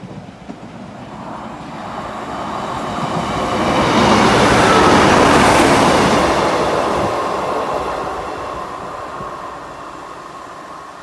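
Class 950 track-recording diesel multiple unit passing through a station: its engine and wheels on the rails grow louder as it approaches, are loudest about four to six seconds in as it goes by, then fade as it draws away.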